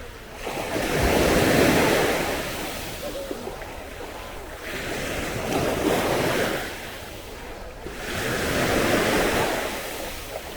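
Sea waves breaking and washing up the shore, the surf swelling and fading three times.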